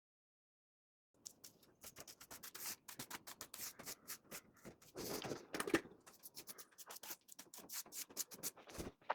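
Paintbrush stroking paint onto a pre-primed MDF door frame: a rapid run of short, scratchy brush strokes that starts about a second in after a moment of silence.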